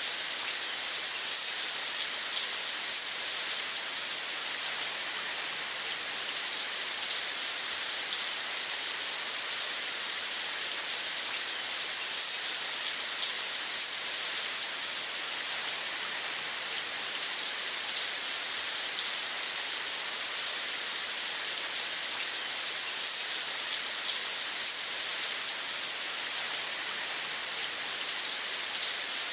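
Steady rain falling, an even hiss with a fine patter of drops that does not change.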